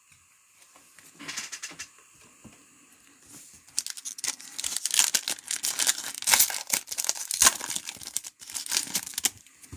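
Football trading card pack wrappers being torn open and crinkled. It starts as a faint crackle about a second in, then becomes a busier, louder run of crinkling and tearing from about four seconds in.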